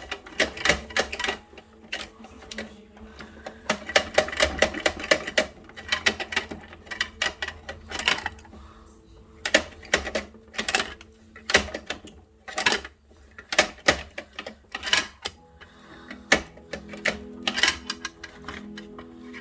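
Rapid, irregular plastic clicking and clacking from Bruder toy garbage trucks and their toy bins being handled, in quick clusters with short pauses, over a faint steady low hum.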